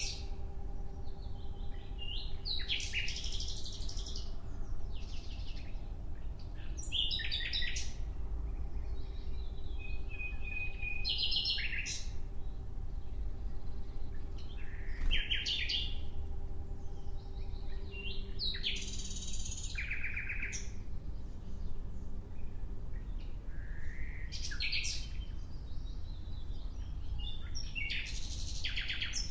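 Nightingale singing: short, varied phrases of trills and rapid notes, about every four seconds with pauses between, over a low background rumble.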